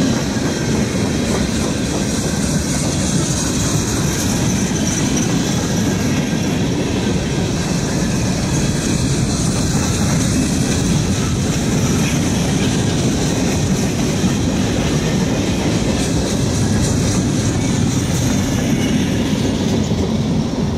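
Norfolk Southern mixed freight cars rolling past at close range. A steady, loud rumble of steel wheels on rail, with a clickety-clack from the wheels over rail joints.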